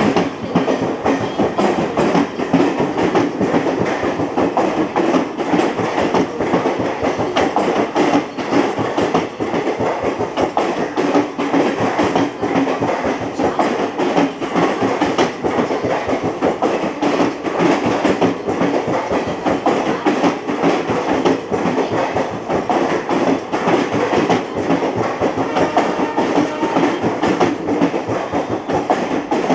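Passenger train coaches rolling past, their wheels clattering steadily over the rail joints.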